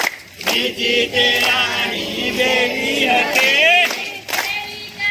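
Voices singing a Gujarati garba song in a long, bending melody, with a few sharp percussive hits.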